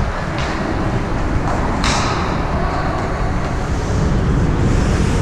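Ice hockey arena sound during play: a steady, loud rumbling background noise with a few short, sharp hissing scrapes, the loudest just before two seconds in, trailing off in a hiss.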